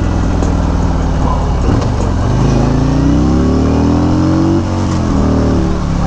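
Harley-Davidson Street Glide's V-twin engine accelerating: after a low steady rumble, its pitch climbs for about two and a half seconds, then drops sharply at a gear change and settles.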